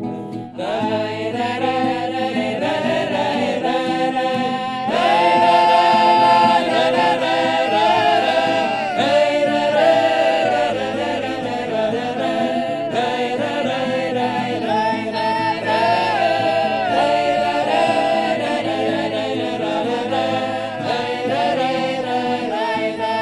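Several voices singing a cappella in harmony, a wordless melodic passage between verses of the song.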